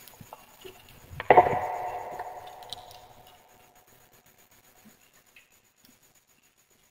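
A single sharp strike about a second in, with a ringing tone that fades away over about two seconds, over faint scattered crackles.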